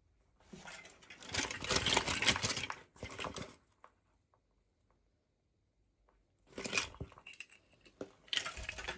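Doll packaging being handled and opened: crinkling and tearing of plastic and card in bursts, with a pause of a couple of seconds in the middle.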